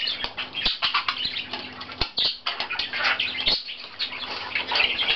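Budgerigar chattering and warbling continuously, with a few sharp taps in between.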